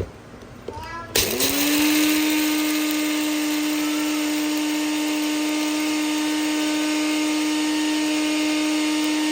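Nutribullet blender motor grinding coffee beans: after a couple of clicks it starts about a second in, spins up quickly and runs on as a steady, loud, high whine.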